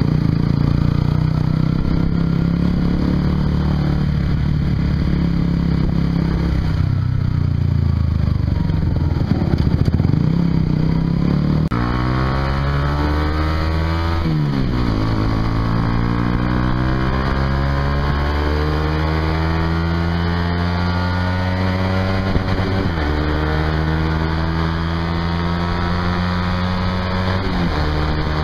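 Honda CBR150R's single-cylinder engine breathing through a Yoshimura exhaust while riding. It runs at fairly steady revs for the first dozen seconds, then is opened up hard. The pitch climbs through the gears, dropping briefly at each of three upshifts.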